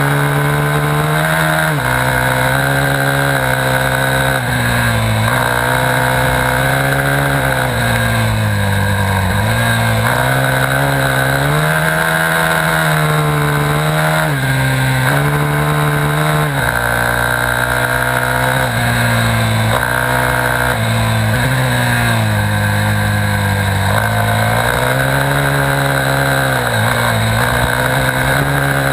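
Dirt bike engine running hard under load, its pitch repeatedly climbing and then dropping every few seconds as the rider works the throttle and the gears.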